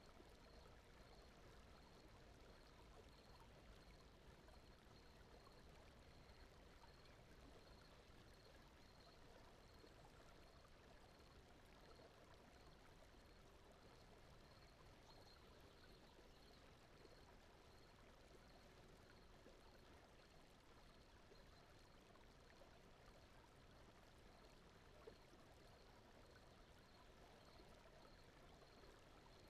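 Very faint, steady brown-noise bed with a soft, stream-like water rush. A faint high-pitched pulse repeats about one and a half times a second throughout.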